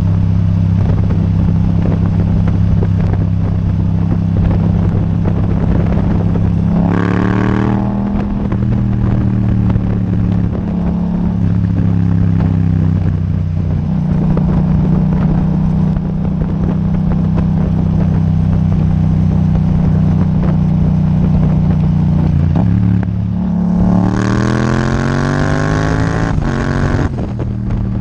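Yamaha MT-07's parallel-twin engine through an Akrapovič titanium exhaust, idling steadily. It gives a quick rev about seven seconds in and a longer rev near the end, the pitch rising then dropping back to idle.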